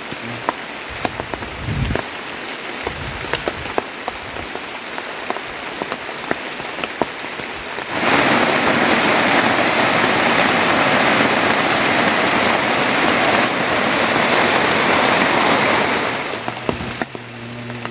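Heavy rain falling on the shelter, with scattered sharp drips. About eight seconds in, a much louder, even downpour comes in abruptly and lasts about eight seconds before dropping back.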